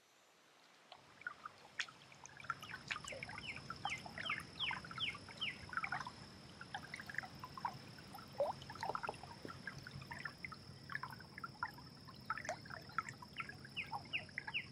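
Woodland birds singing and calling: many short chirps and quick falling runs of notes, starting about a second in, over a steady high whine and a low hiss.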